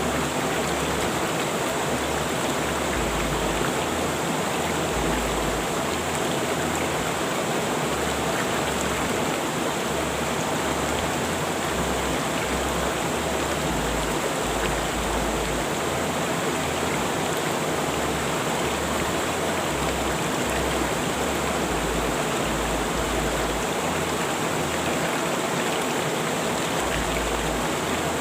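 Rushing river water flowing steadily, a dense, even rush with no change in loudness.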